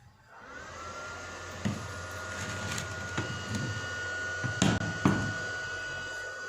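Small stick-welding machine switched on: its cooling fan spins up and runs steadily with a low hum, and a thin high whine rises in pitch over the first second, then holds. A few sharp knocks of handling come through, the loudest near the end.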